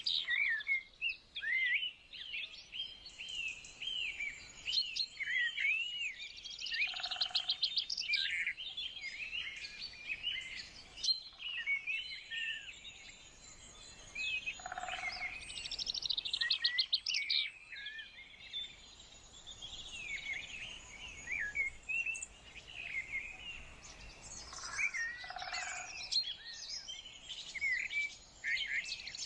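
Chorus of small songbirds singing and chirping over one another, with a louder trilled phrase coming back about every eight to ten seconds.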